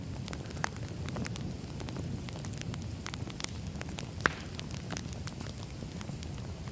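Wood fire crackling: a steady low rush of burning logs with scattered snaps and pops, one sharper pop a little over four seconds in.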